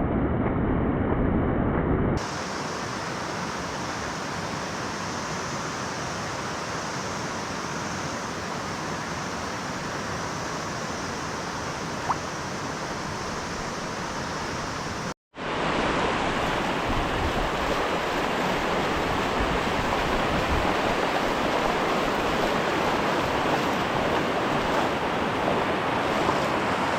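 Steady rush of flowing water, an even hiss with no rhythm, that changes abruptly about two seconds in and drops out for a moment about fifteen seconds in.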